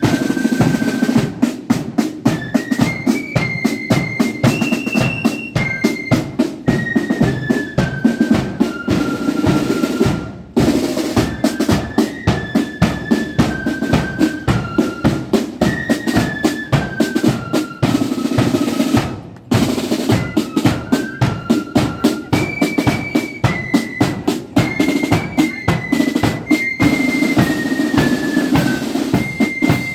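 Marching flute band playing: a flute melody over rapid snare-drum rolls and bass-drum beats, with two short breaks, about ten and nineteen seconds in.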